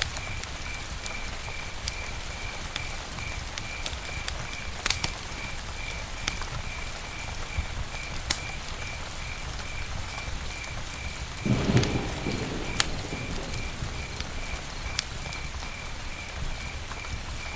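Campfire crackling: a steady hiss with sharp pops, the loudest about five, eight and thirteen seconds in, and a brief low rumble about twelve seconds in. A faint high chirp repeats about three times a second.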